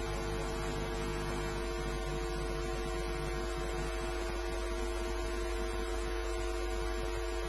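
Steady electrical hum with a constant hiss underneath, unchanging throughout.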